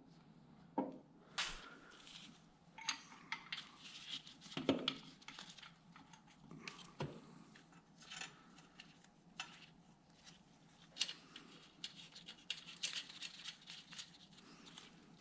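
Scattered light clicks, clinks and rustles of hand tools and small parts being handled during engine work, with a few sharper knocks, the loudest a little under five seconds in.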